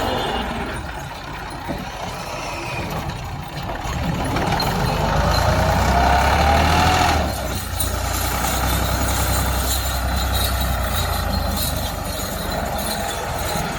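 Massey Ferguson 260 tractor's diesel engine running, its deep drone swelling from about four seconds in. A rising whine sits over it and cuts off suddenly about seven seconds in.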